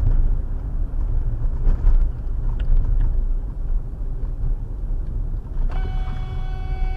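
Dash-cam recording of a car driving, a steady low road and engine rumble, with a car horn sounding one long steady blast starting near the end.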